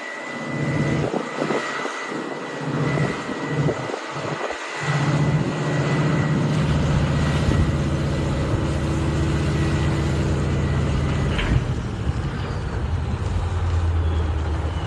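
A large engine running steadily, its low hum dipping a few times in the first five seconds and then holding even, with a constant high whine over it that stops about eleven seconds in.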